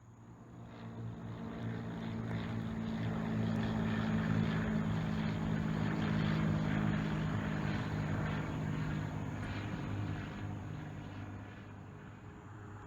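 A passing engine with a steady low drone, growing louder over the first few seconds, loudest around the middle, then fading away near the end.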